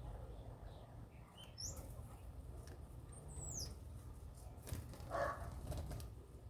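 Birds calling: two short high chirps in the first half, one rising and one falling, then a louder, lower call about five seconds in, over a steady low rumble.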